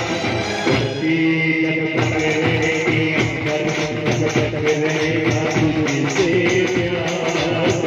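Village band music: a held melody line over a steady percussion beat.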